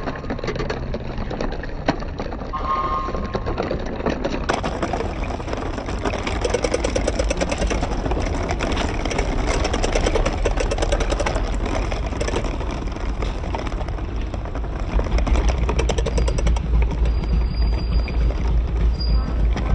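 Tractor diesel engine running with a steady pulsing beat, growing louder and deeper in the last few seconds.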